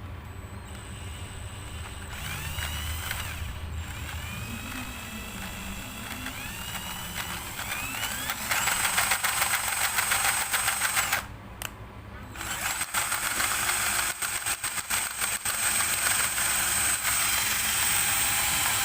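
Small electric motor spun up in several short bursts, each a rising whine. It then runs steadily with a high whine and a dense buzz, stops for about a second partway through, and starts again.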